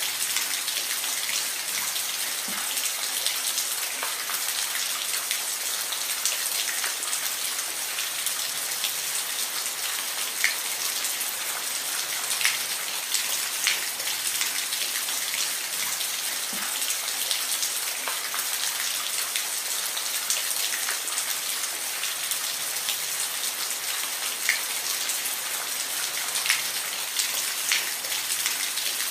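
Steady rain with distinct drops pattering and ticking on a hard surface, a dense even hiss with individual louder drop hits scattered throughout.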